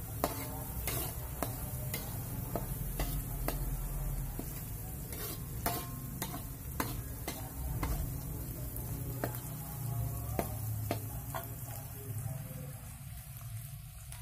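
Ground spice paste sizzling as it fries in oil in a wok, with a metal spatula stirring and scraping, giving irregular clinks against the pan. This is the paste being fried until fragrant.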